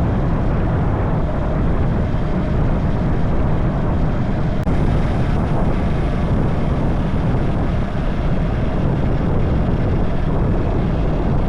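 Wuyang-Honda 190 motorcycle on the move: the engine running under a steady, loud rush of wind over the microphone, with a short splice just under five seconds in.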